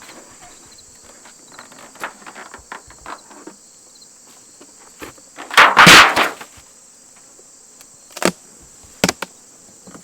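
Steady high chirring of late-summer insects, over scattered clicks and knocks of wooden beehive parts being handled as a hive is opened. One loud, rough noise about six seconds in, then two sharp knocks near the end.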